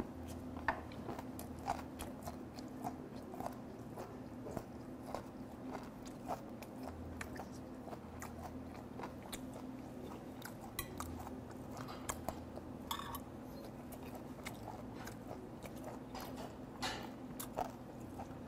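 Close, quiet chewing of fermented skate (hongeo), with many short crisp clicks scattered through it, over a faint steady low hum.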